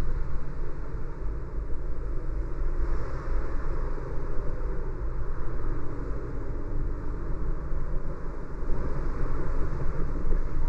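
Steady road noise of a car driving: a low rumble with tyre and wind hiss.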